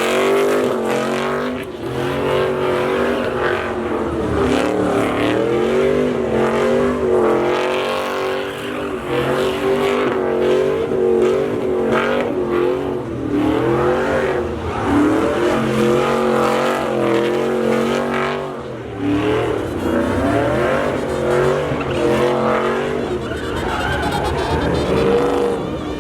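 Truck engine revving hard and held high during a burnout, its pitch rising and falling again and again, with tyres spinning and screeching on the pavement.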